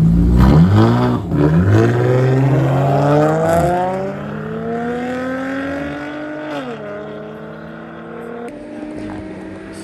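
A drag-race car launching hard and accelerating away. The engine pitch climbs steadily and drops twice as it shifts up, about 3.5 and 6.5 seconds in. The sound gets gradually quieter as the car pulls away.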